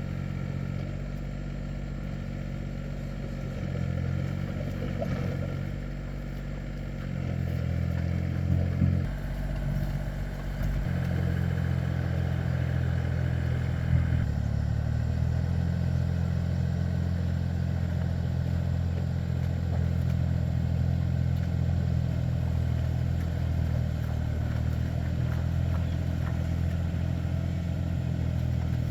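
Agrimotor (two-wheel farm tractor) engine running with a low steady throb. Its speed shifts about a third of the way in and then holds steady, with a short knock near the middle.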